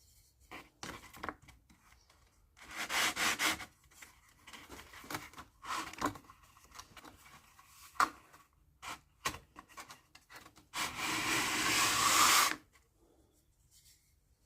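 Wood being sanded by hand with a piece of worn 80-grit sanding belt, in irregular rubbing strokes. A run of quick strokes comes about three seconds in, and one longer continuous stroke comes near the end.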